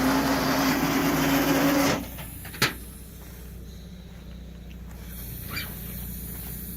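A motor vehicle engine running with a steady hum, which cuts off abruptly about two seconds in. A single sharp click follows, then a quieter steady low rumble.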